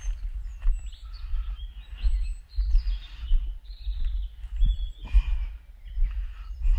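Footsteps on a forest trail, about one step a second, over a steady low rumble, with a few faint high bird chirps.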